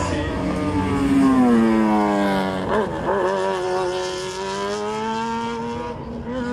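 Race car engine running hard through the slalom: its pitch falls over the first three seconds, breaks off briefly near three seconds, then dips and slowly climbs again as it accelerates.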